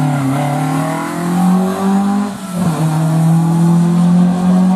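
Rally car engine at full throttle, its pitch climbing, then dropping sharply about two and a half seconds in at a gearshift and climbing again.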